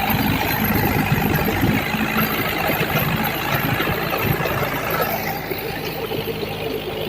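Diesel tractor engine running steadily, with a low hum and a dense knock; it drops a little in level about five seconds in.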